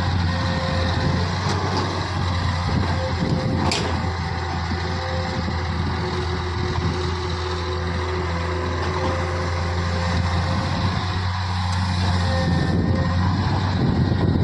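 Heavy diesel machinery engine running steadily with a deep, even drone. There is a brief sharp click about four seconds in.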